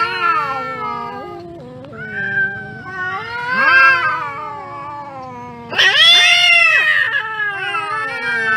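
Domestic cats caterwauling in a fight standoff: long, wavering, overlapping yowls, with a sudden louder yowl about six seconds in.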